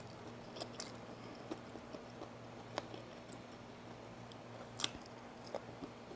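A person chewing food with the mouth closed: quiet, wet mouth clicks and smacks scattered through, the sharpest about three seconds in and near five seconds. A faint steady low hum runs underneath.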